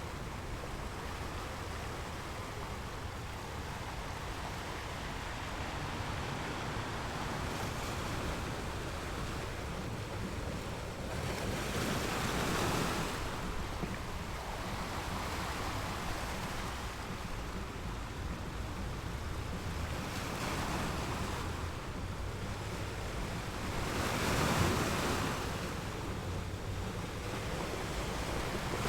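Ocean surf: a steady wash of waves, with breakers swelling louder about twelve seconds in and again about twenty-four seconds in.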